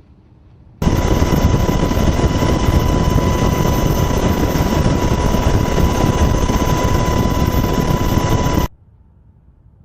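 Loud, steady engine noise with a high steady whine, typical of a helicopter close by. It cuts in abruptly about a second in and stops just as abruptly near the end.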